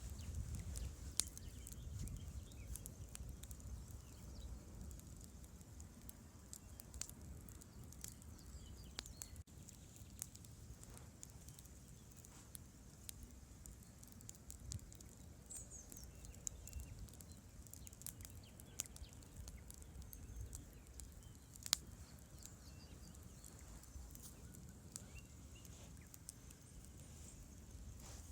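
Campfire crackling: scattered sharp pops and snaps, a couple of them louder, over a faint steady low rumble.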